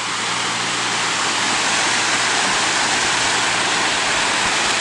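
Steady roar of Minnehaha Falls, water dropping some 40 to 50 feet and crashing onto rocks.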